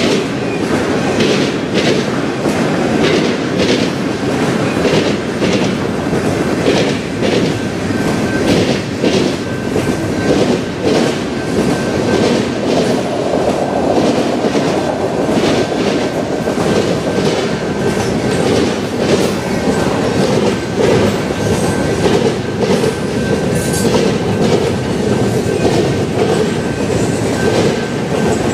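A freight train's cars (flatcars, autoracks and boxcars) rolling past close by: a steady rumble of steel wheels on rail with frequent irregular clicks as the wheels cross rail joints. A thin, faint, high ring holds steady through it.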